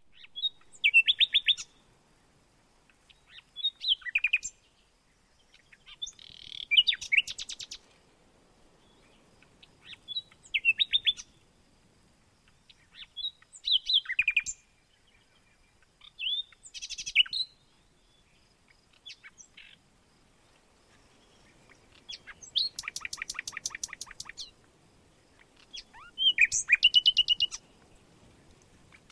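Songbird singing: about nine short phrases of fast, high, trilled notes, one roughly every three seconds.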